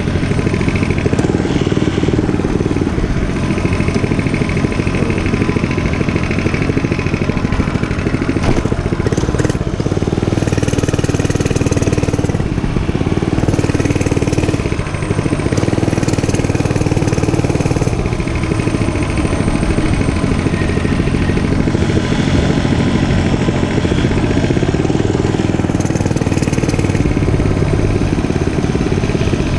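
Dirt bike engine running continuously, its revs rising and falling every few seconds.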